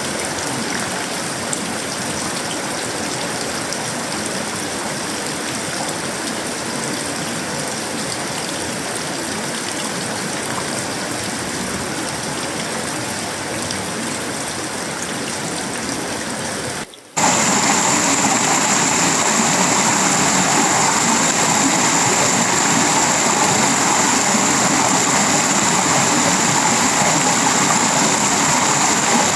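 Tropical rain falling steadily on a sheet-metal roof, wood and leaves, a dense even hiss. Just after halfway it cuts out for a moment and comes back louder, now with a steady high-pitched tone running under the rain.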